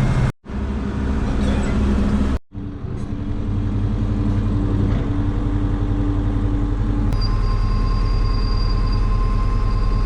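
Tractor running inside its cab, a steady engine drone mixed with the loud blowing of the cab air conditioner. The sound cuts out twice near the start, and a thin steady whine joins about seven seconds in.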